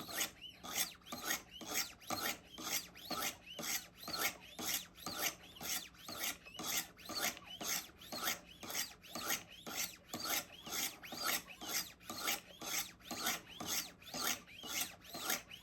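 A knife blade stroked along 300-grit Wicked Edge Go sharpening stones, making steady rasping strokes about three a second. This is the refining stage, taking out the scratches left by the coarse 100-grit stones.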